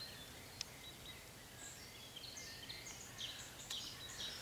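Faint songbirds calling in the background: scattered short high chirps and whistles over a light outdoor hiss, with a brief click under a second in and another near the end.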